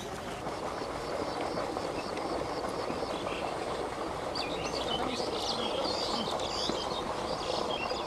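Small songbirds chirping over a steady outdoor hiss. A quick, even run of chirps fills the first three seconds or so, then a more varied string of calls comes in the second half.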